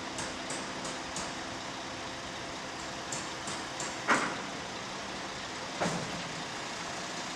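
Truck engine running steadily while the empty mortar silo is lowered, with a run of light clicks and two sharp knocks, the louder one about four seconds in and another near six seconds.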